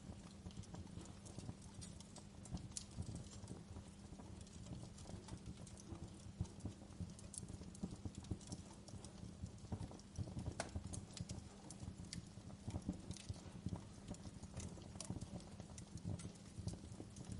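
Wood fire in a fireplace crackling and popping: irregular sharp snaps of burning logs, a few louder than the rest, over a steady low background.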